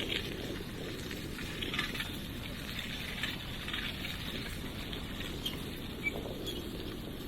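Bicycle ride outdoors: a steady low rumble of wind and rolling noise, with faint scattered ticks and a few short high chirps.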